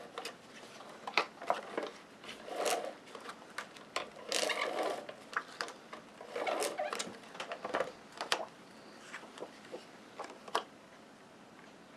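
Paper and photo prints being handled on a craft table: a run of light taps and clicks with short rustling and sliding sounds, about three longer rustles around the middle.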